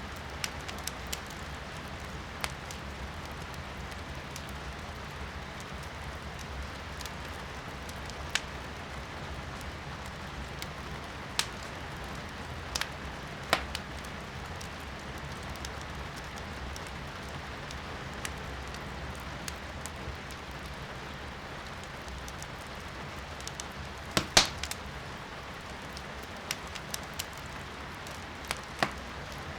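Firewood crackling in a fireplace, with sharp irregular pops, the loudest in a quick cluster late on, over a steady hiss of rain heard from inside the room.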